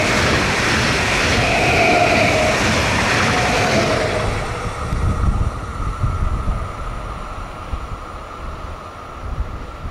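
Stadler FLIRT electric multiple unit passing close by at speed: rushing wheel-on-rail noise with a whine over it. About four seconds in, the noise falls away to a quieter low rumble as the train moves off.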